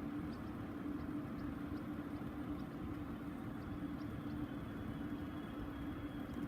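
Boeing 747's jet engines on its touch-and-go roll: a steady low drone, with a faint high whine that comes in about four seconds in and slowly falls in pitch.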